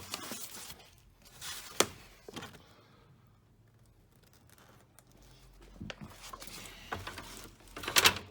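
Rustling and clicking as objects and papers are handled and picked through, with a sharp click about two seconds in, a quiet pause in the middle, and a louder rustle and scrape near the end.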